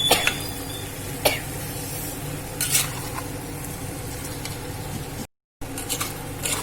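Marinated chicken sizzling in the pot as it is stirred into the cooked-down tomato-onion masala. The spoon scrapes and knocks against the pot a few times. The sound drops out briefly about five seconds in.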